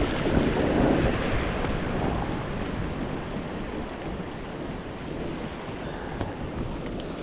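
Sea waves washing, with wind rumbling on the microphone. It is loudest in the first couple of seconds, then eases to a steadier wash.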